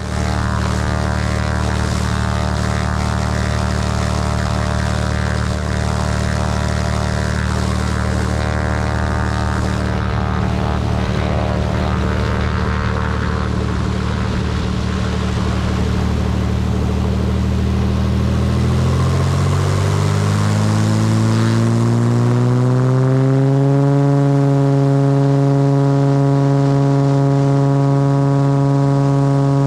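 Cessna T210M's turbocharged Continental TSIO-520 engine and propeller running at takeoff power, heard from inside the cabin. The engine tone holds steady, then rises in pitch over about five seconds near the end and holds at the higher pitch.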